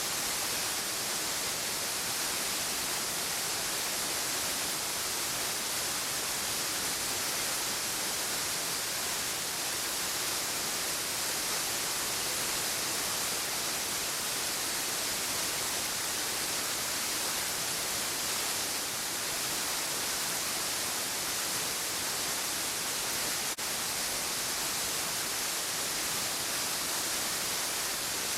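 Steady, even rushing hiss, strongest in the high register, with no birdsong or other distinct sounds.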